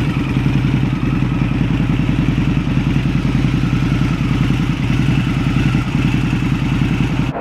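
Custom Harley-Davidson Night Rod's V-twin engine running steadily at a fast idle, with an even exhaust pulse and no revving. It cuts off suddenly near the end.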